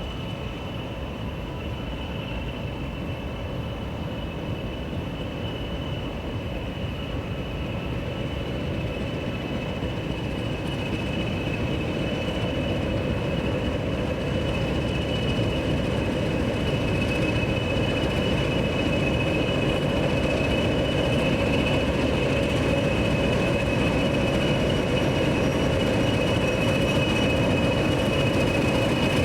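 Train approaching on the rails, its running noise growing steadily louder, with a high, steady squeal from the wheels.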